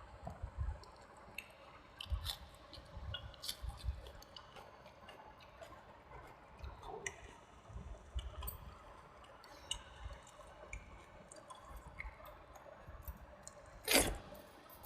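Close-miked chewing of a rice-and-curry meal: soft wet mouth sounds and many small clicks, with one louder sharp click near the end.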